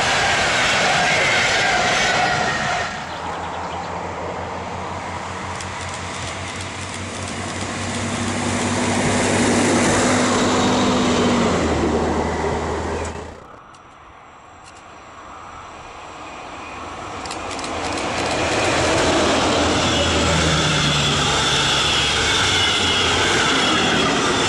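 Passenger trains on electrified main lines passing by at speed, heard in several short back-to-back recordings. The first is a train of regional coaches rolling past. After a brief quiet stretch in the middle, another train builds up to a loud pass-by near the end.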